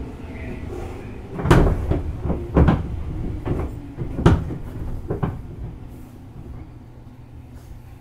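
Five loud clanks and thumps, about a second apart, on board a JR East 205-series electric train, over a low rumble that fades away near the end.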